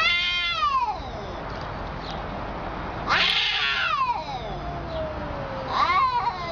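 A cat yowling: three long, drawn-out meows, each falling in pitch, the last one starting near the end.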